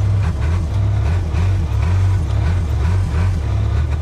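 Heavy equipment engine running steadily at low revs, with a deep, slightly pulsing rumble.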